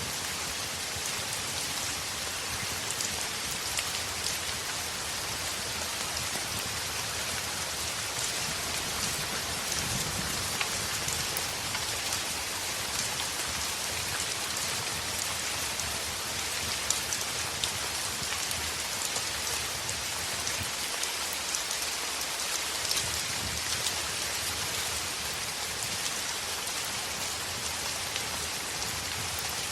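Heavy rain on a window: a steady, dense hiss with scattered sharp ticks, and a faint low rumble about ten seconds in.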